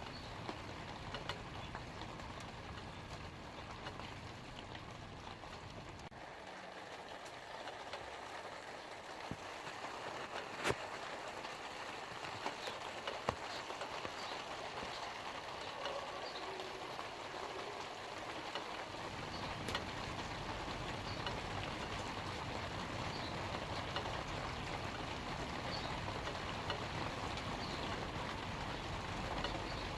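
Light rain falling steadily on leaves, with scattered drop ticks. A low rumble underneath fades out about six seconds in and comes back about two-thirds of the way through.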